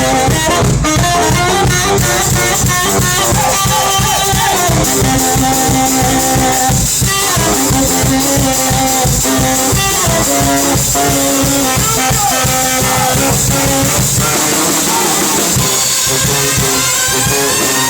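Live brass band playing: horns on held and moving melody lines over a driving drum-and-bass beat. About fourteen seconds in, the low beat drops out and the horns carry on alone.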